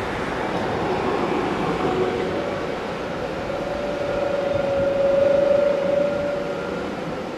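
Rhaetian Railway passenger train hauled by a Ge 4/4 I, its coaches rolling steadily over a stone viaduct with a continuous wheel-on-rail rumble. A steady ringing tone comes up about halfway through, gets loudest, then fades near the end as the last coach passes.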